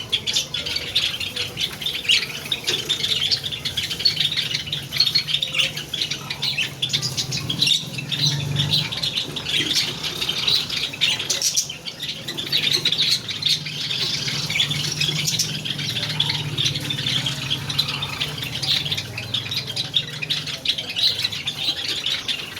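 A flock of Java sparrows chirping continuously, many short calls overlapping, over a low steady hum.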